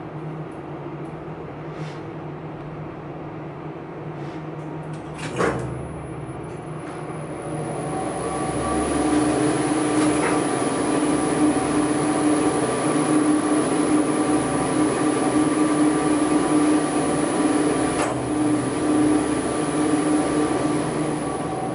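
Elevator machine-room equipment running: a steady mechanical hum, then a loud clack about five seconds in, after which a high whine sets in and the machinery grows louder over a few seconds and runs on with a steady hum. Two single sharp ticks sound later, near the middle and towards the end.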